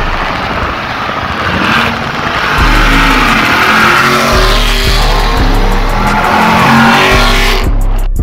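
Dodge Charger V8 engines accelerating on the highway, with rushing road noise. A hip-hop beat with deep bass notes plays underneath.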